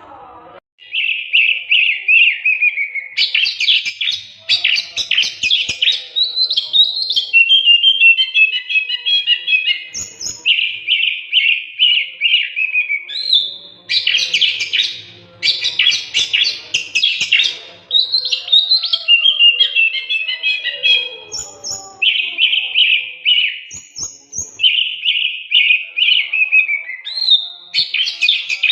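Oriental magpie-robin (kacer) singing loudly and almost without pause from about a second in. It is a varied song of clear whistles, rapid trills, chattering runs and short high notes, with similar phrases coming round again.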